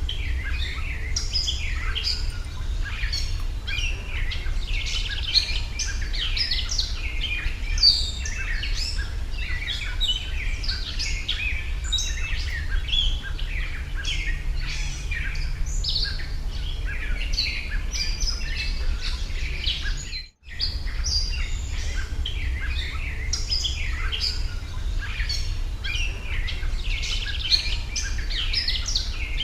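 Dense chorus of many small birds chirping without a break, over a steady low rumble. About twenty seconds in, the sound cuts out for an instant, then resumes.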